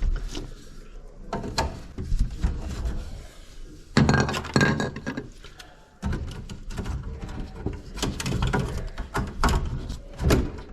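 Clatter and knocking of plumbing parts and tools being handled and fitted while a drain line is worked on: a string of short knocks, clicks and scrapes.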